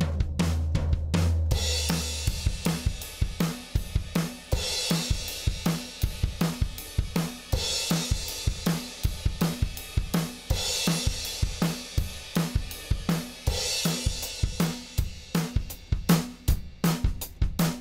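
Recorded drum kit playing a steady groove of kick, snare and hi-hat, with a cymbal wash coming in about every three seconds. A low sustained bass tone sounds under it for the first second and a half. This is demo material run through a Lindell Audio 17X FET compressor, an 1176-style limiter.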